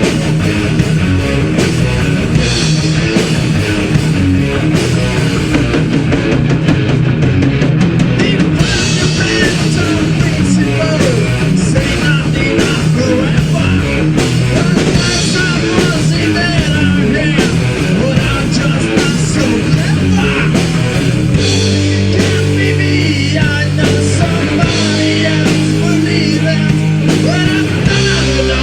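Heavy metal band playing loud: distorted electric guitars, bass and a fast-hit drum kit. About twenty seconds in the music shifts to long, held low chords.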